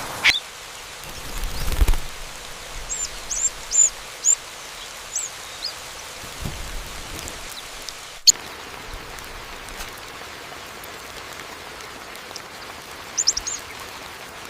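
A small bird giving short, high chirps, about six spread over a few seconds, then a quick burst of three near the end. Behind them runs a steady hiss, with a couple of low rumbling swells and one sharp click about halfway.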